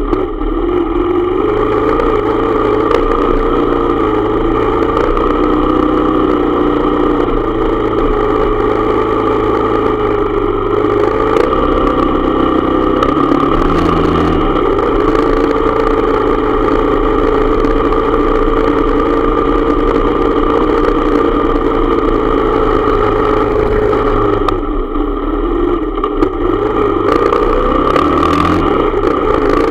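Motorcycle engine running under way, picked up by a camera mounted on the bike. Its pitch holds steady for long stretches, then drops and climbs again about halfway through and once more near the end.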